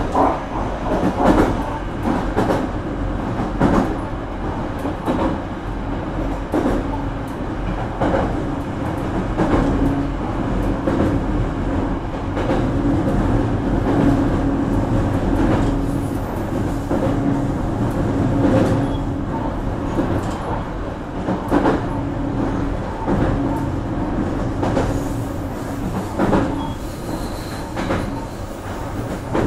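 BEC819 series DENCHA battery-electric train running along the line: steady wheel and rail noise with scattered clicks from the wheels passing rail joints, and a steady hum from the running gear.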